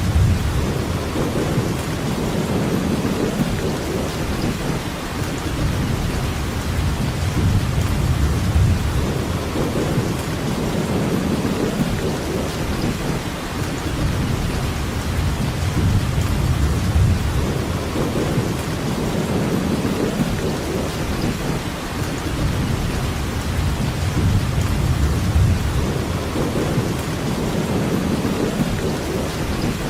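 Steady, heavy rainfall: a continuous hiss of rain, under a low rumble that swells and fades every few seconds.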